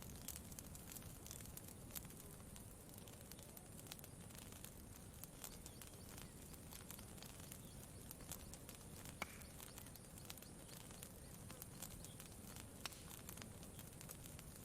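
Faint campfire crackling, with irregular small pops and a few sharper snaps, over a low steady rumble.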